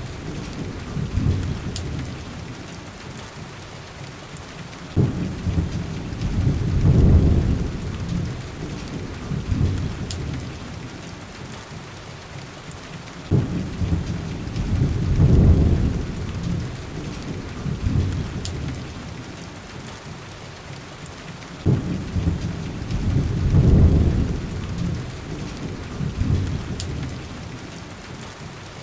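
Steady heavy rain with low, rolling rumbles of thunder. Each rumble starts suddenly, swells and fades, coming about every eight seconds: three times. A few faint sharp pops sound over the rain.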